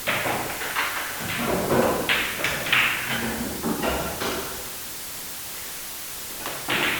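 Indoor sports practice ambience: scattered knocks and thuds echoing in a large hall over a steady hiss, busy for the first four seconds or so, then quieter until one more burst near the end.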